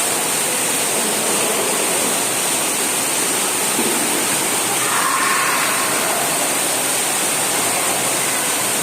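Steady rushing of running water, even and unbroken, with faint distant voices about five seconds in.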